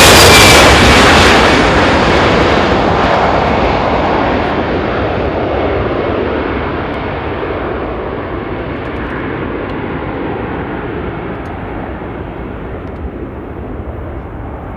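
Airbus A319-112's twin CFM56-5B6/P turbofans at takeoff thrust as the airliner climbs away, the engine noise fading steadily and losing its high hiss until mostly a low rumble remains.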